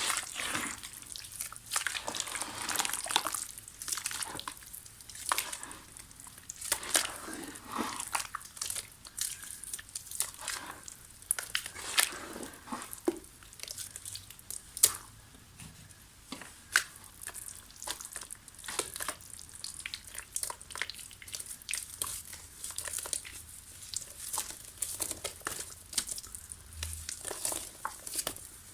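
Soft dried mud being crumbled, a continuous run of irregular crackling and crunching with no steady rhythm.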